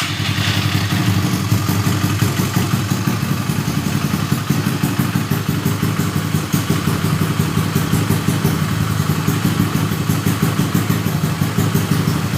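A Yamaha Mio scooter's single-cylinder engine, built up to 200 cc, idling steadily with a fast, even firing beat and no throttle, just after being started.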